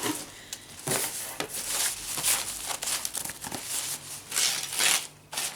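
Packaging crinkling and rustling in irregular bursts as hands rummage through a gift parcel and unwrap the next item.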